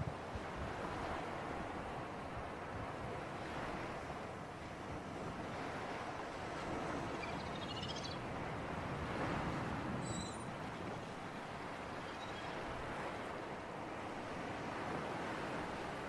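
Sea surf and breeze: a steady wash of waves and wind, swelling a little about halfway through, with a few faint high chirps in the middle.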